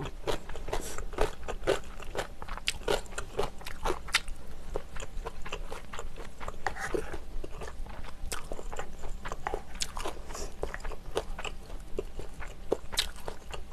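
Close-miked chewing of kimchi, with many crisp, irregular crunches.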